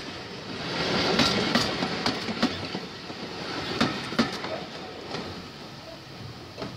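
Railway carriages rolling past, their wheels clicking over the rail joints, loudest in the first couple of seconds and then fading as the train draws away.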